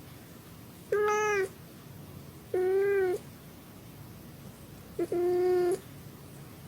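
A cat meowing three times, each meow about half a second long and roughly two seconds apart.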